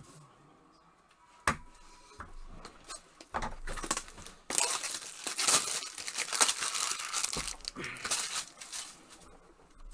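Trading card case packaging being torn open and crinkled, with a sharp click about one and a half seconds in and ripping and crinkling from about three seconds in until near the end.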